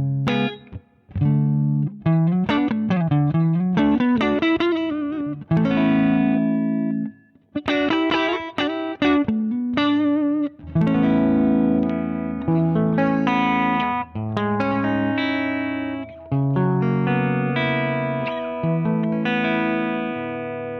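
Electric guitar played through a Zander Circuitry Surplus overdrive pedal. It plays picked single-note phrases with string bends, then held chords, the last left ringing and fading out.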